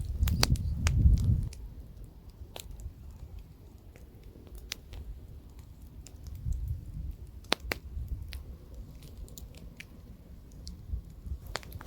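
Campfire crackling, with scattered sharp pops. Underneath is a low wind rumble that is heaviest for the first second and a half, then comes and goes more softly.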